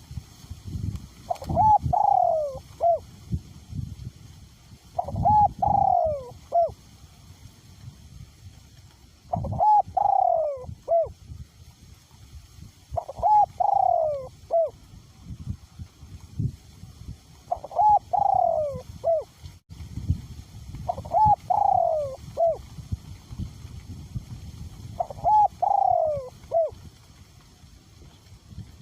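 Male spotted dove cooing, seven three-note phrases about four seconds apart, each a short note, a longer falling note and a short final note. Low gusts of wind buffet the microphone between and under the calls.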